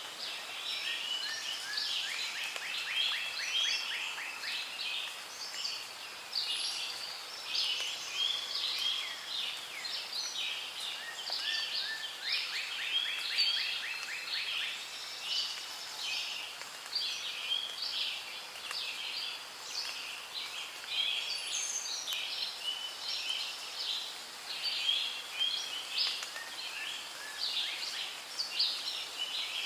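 Rainforest bird chorus: many birds chirping and whistling over one another, with a rapid pulsed trill twice, about two seconds in and again about twelve seconds in.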